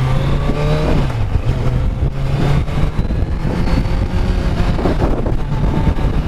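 Kawasaki Z900's stock inline-four engine pulling hard under acceleration, its note rising for about a second, then changing and carrying on, with heavy rushing noise across the microphone from the bike's speed.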